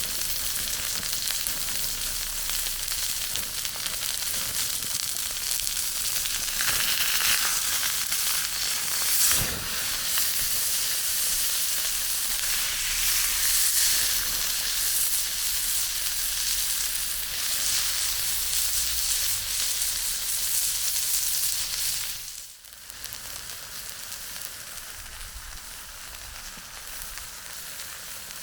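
Chicken frying in a pan over a campfire: a steady, loud sizzle that swells twice, with a single knock about nine seconds in. About 22 seconds in it drops suddenly to a quieter sizzle.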